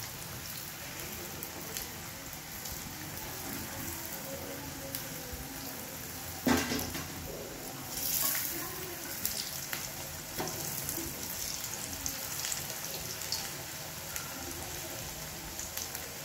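Potato-and-pea patties frying in hot oil in a pan, a steady sizzle. About six and a half seconds in there is a sharp clank of a steel spoon against the pan, and the sizzle flares louder for a moment about eight seconds in as a patty is turned in the oil.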